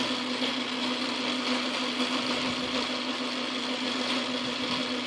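Craftsman Atlas metal lathe running steadily, its motor and gear train giving an even mechanical hum with a steady low tone.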